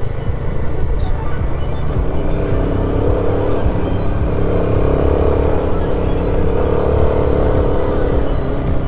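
Royal Enfield Himalayan 450's single-cylinder engine running at a steady speed while riding a rough, stony dirt track, with a constant low rumble from the ride and wind on the microphone.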